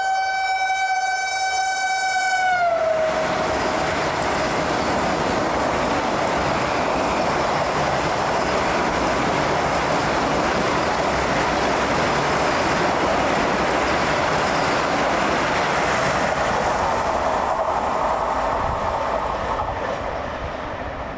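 Indian Railways express train passing at high speed. The locomotive's horn blows one long note that drops in pitch as it goes by, about two and a half seconds in. The coaches follow with a steady loud rush and rail clatter that fades near the end.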